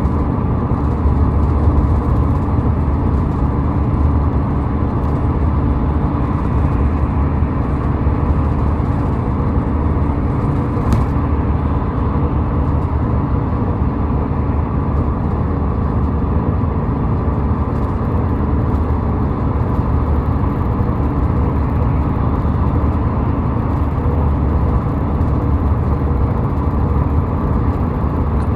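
Steady low rumble of car tyres and engine driving on a highway, unchanging throughout.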